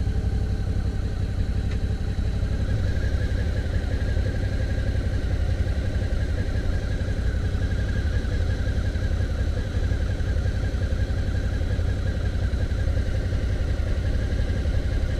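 Suzuki V-Strom motorcycle's V-twin engine running steadily at low revs, with a heavy low rumble.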